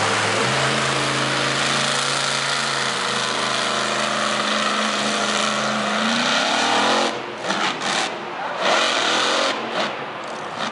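Monster truck engine held at high revs, the pitch steady and then rising a little. About seven seconds in the steady tone breaks off into choppy, on-and-off throttle bursts.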